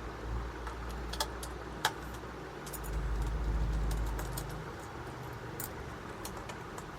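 Small sharp clicks and light metallic rattles of screws and a small screwdriver being handled while a laptop's bottom-case screws are taken out. A low rumble swells up for a second or two about halfway through.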